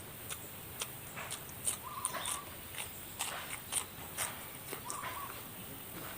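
A person eating spicy chicken feet and noodles close to the microphone: irregular wet clicks and smacks of chewing and biting, with two brief higher tones about two and five seconds in.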